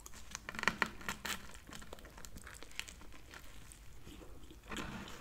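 Close-up biting and chewing of a chopped cheeseburger sub on a toasted roll: the crisp crust crackles in quick small clicks and tears, thickest in the first second or so and sparser after.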